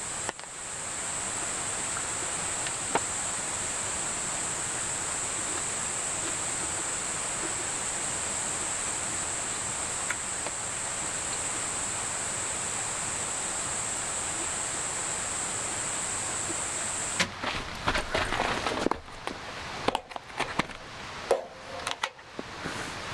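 A steady rushing outdoor background with a high, even hiss over it; about seventeen seconds in the hiss stops abruptly and a run of irregular sharp clicks and knocks follows.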